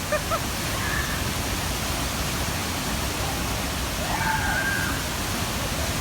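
Waterfall water rushing steadily, an even hiss-like noise, with a faint voice heard briefly about four seconds in.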